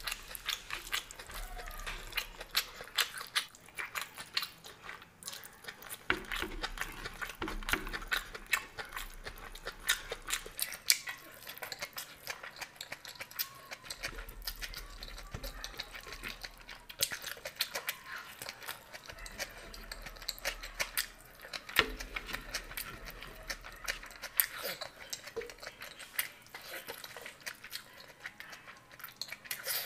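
Close-miked eating of veg chow noodles by hand: chewing, lip smacks and many small mouth clicks in a steady run.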